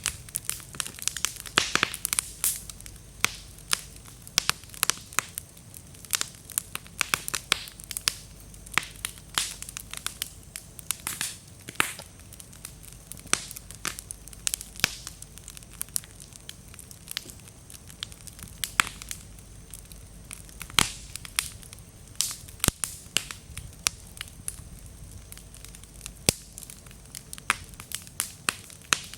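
Wood fire burning and crackling, the damp firewood popping sharply several times a second in an irregular run over the low rush of the flames.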